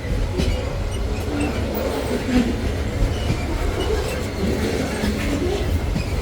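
Freight train wagons rolling past: a steady low rumble of wheels on rail, with scattered clacks and brief squeals from the wheels.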